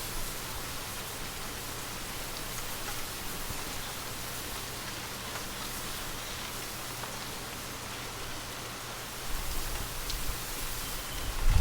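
Steady rain falling, a dense even patter of raindrops. About nine seconds in a low rumble rises beneath it and grows louder near the end.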